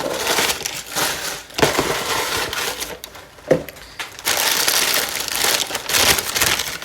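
Toy packaging being handled and opened by hand: crinkling and crumpling in spells, with a brief lull about halfway and louder crinkling through the second half.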